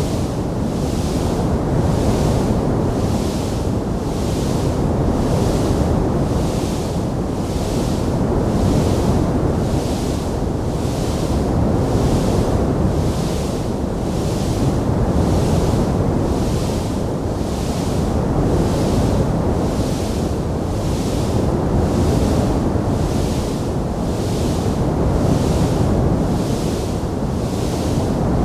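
Steady rushing noise, heaviest in the low end, with a high hiss that swells and fades evenly about one and a half times a second. There are no distinct crackles or pops.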